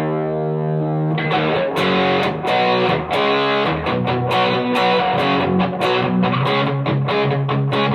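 Electric guitar played through a Donner Morpher distortion pedal with the gain maxed out in its tight mode, heavily distorted. A held chord rings out, then about a second in the playing switches to fast picked, palm-muted riffing.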